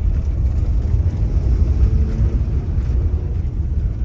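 Car driving along a road: steady low rumble of engine and tyre noise.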